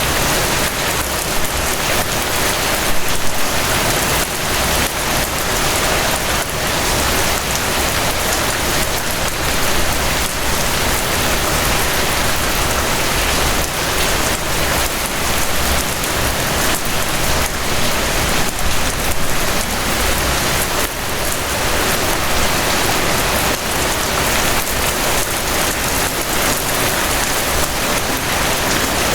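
Steady rain falling on a surface, a dense even hiss with many small drop patters through it.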